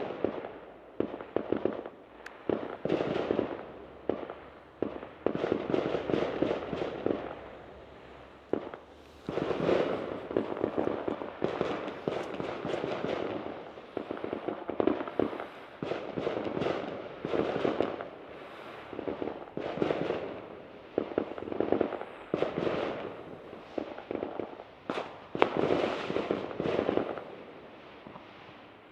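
Fireworks going off in quick succession: a near-continuous run of bangs and crackling bursts, some close together, others a second or two apart.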